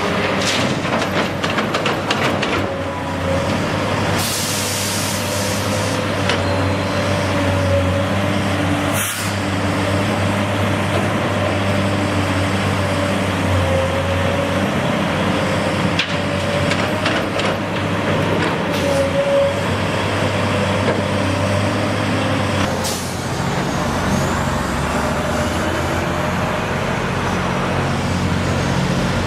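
Heavy diesel engine of a truck or construction machine running steadily, with a short hiss of released air about four seconds in and a few sharp knocks.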